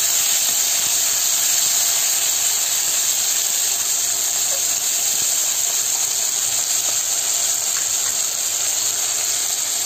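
Chopped onion and tomato sizzling in hot oil in a kadai as they sauté down: a steady, even hiss.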